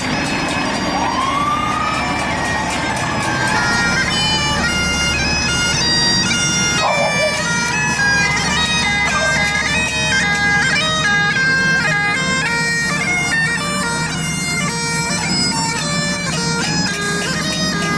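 Highland bagpipes playing a march tune: a melody of stepped, held notes over a steady drone, coming in about four seconds in.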